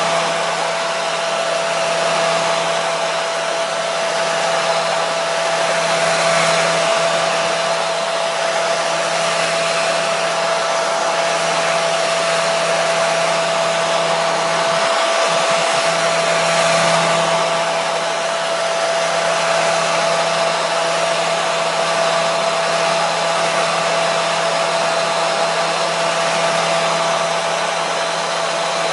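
Hair dryer running steadily: a continuous blowing rush with a steady motor whine and a low hum underneath.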